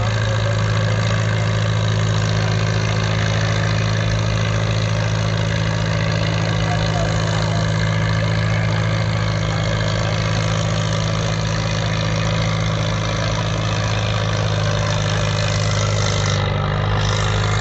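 1950 Farmall tractor engine running steadily under load while pulling the weight sled in a tractor pull, its pitch holding level throughout.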